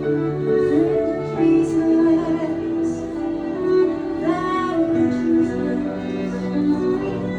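Live acoustic worship music: voices singing slow, sustained melody over held instrumental accompaniment.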